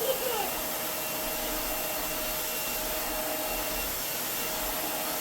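Upright vacuum cleaner running steadily, a constant whine over its motor and airflow noise.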